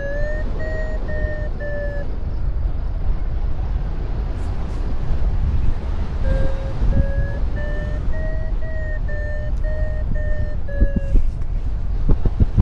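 Paragliding variometer beeping: short beeps, about two a second, whose pitch drifts up and back down a little. This is the climb tone signalling that the glider is rising. One run of beeps ends about two seconds in, and a longer run goes from about six to eleven seconds, over steady wind rumble on the microphone.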